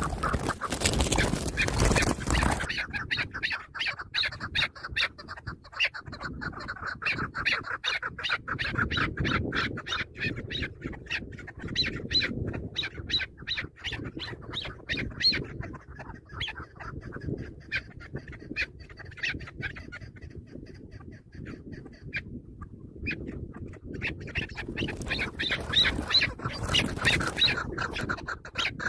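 Chukar partridges calling: a long run of rapid, harsh clucking notes, several a second, rising and falling in intensity. A loud rustling scuffle, like wings beating, opens the run in the first two seconds or so.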